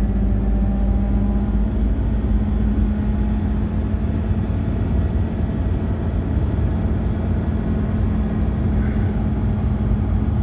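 Bus engine and road noise heard from inside the passenger cabin: a steady low rumble with a constant droning hum.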